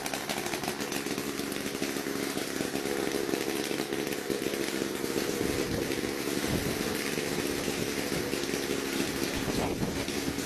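Small petrol engine of a homemade helicopter running steadily.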